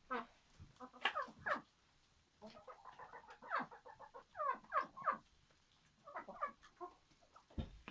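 A run of short, falling animal calls from domestic animals, several a second, with brief gaps in between.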